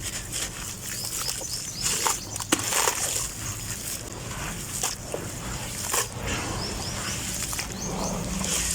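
Crunchy grainy material being crushed and crumbled by hand, with irregular crackles and sharp little snaps.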